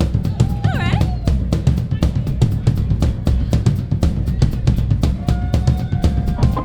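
Live rock band playing, with the drum kit prominent: kick and snare hits in a fast, even beat over a heavy low end.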